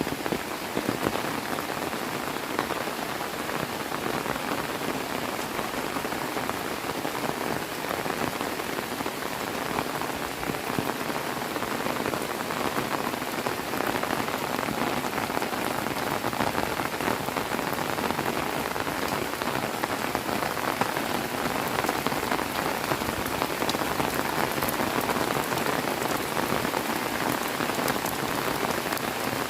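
Heavy rain falling steadily, a dense even hiss of drops striking surfaces with fine patter throughout.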